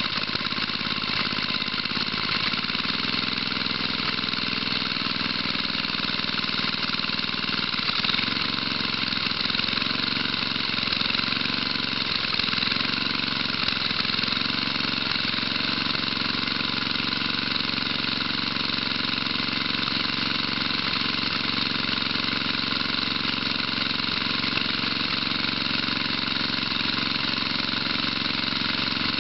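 1975 Tecumseh 5 hp single-cylinder engine running steadily at a constant speed.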